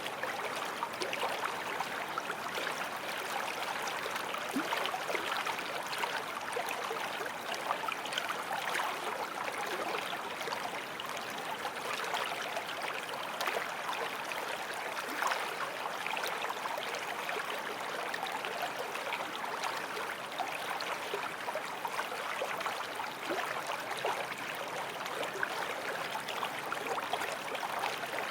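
A forest stream flowing over stones, a steady rushing and babbling with many small splashes.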